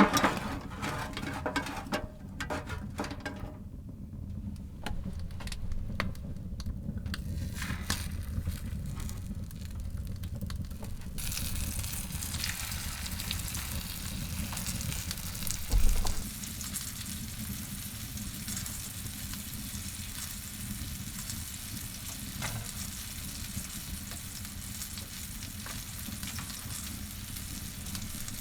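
Scattered knocks and clatter, then from about a third of the way in a steady sizzle of food frying in a hot pan. There is one dull thump in the middle.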